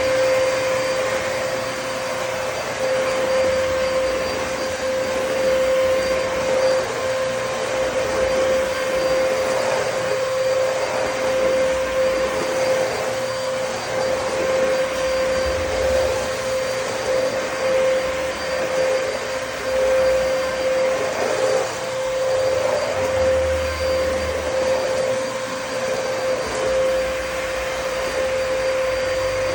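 Dyson DC33 upright vacuum cleaner running steadily while vacuuming a kitchen floor: a constant motor whine over the rush of airflow.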